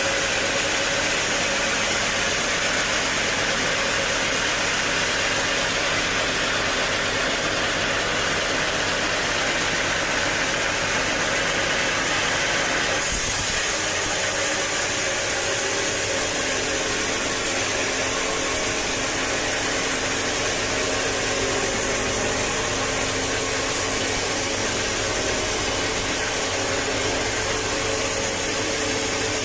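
Band sawmill running, its blade sawing through a teak log: a steady, loud mechanical noise with a hiss over a low hum. The tone changes abruptly about thirteen seconds in.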